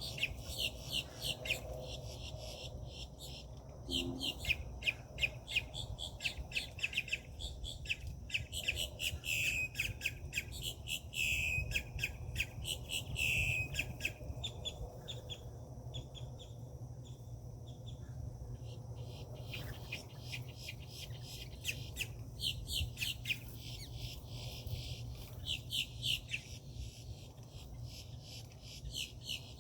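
Birds at a feeder calling over and over in quick runs of short, high, harsh notes, with a steady high insect drone and a low hum underneath.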